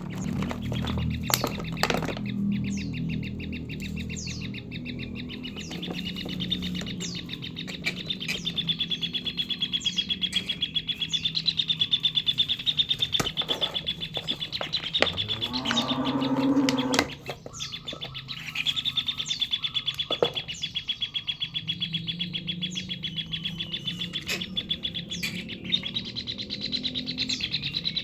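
Kingfisher chick begging for food with a long, very rapid, high-pitched chittering call. The call breaks off briefly a little past halfway, then starts again and runs on.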